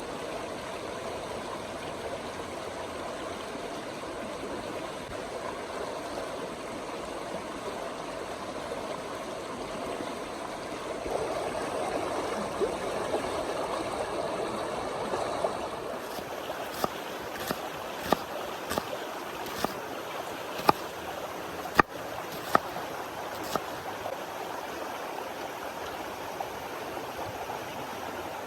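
River water flowing steadily, swelling a little for a few seconds near the middle. Past the middle comes a string of about ten sharp clicks or taps over some eight seconds.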